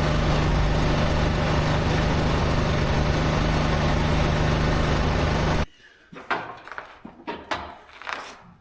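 Tractor engine running steadily, with a constant low hum under a broad rush of noise. It stops abruptly about five and a half seconds in, and a few scattered knocks and clunks follow.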